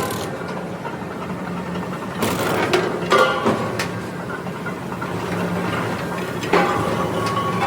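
Factory machinery humming steadily, with sharp metal clanks that ring briefly: a cluster of four a little past two seconds in, and one more near the end.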